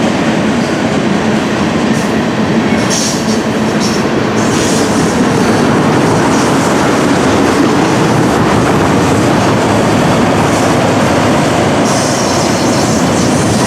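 Train cars rolling past close to the track, a loud steady rumble of wheels on rail. Short bursts of high wheel squeal come about three to five seconds in and again near the end.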